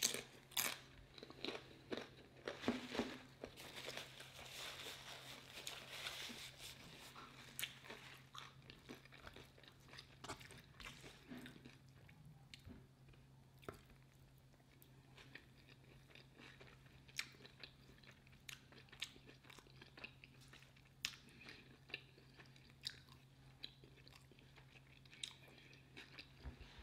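Close-miked chewing and mouth sounds of a person eating a burrito bowl of cauliflower rice and beans, with many short clicks and taps, busiest in the first few seconds. A faint steady low hum runs underneath.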